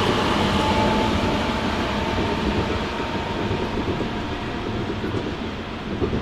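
A train running through the station, its rumble slowly fading as it moves away, with a faint steady whine above it.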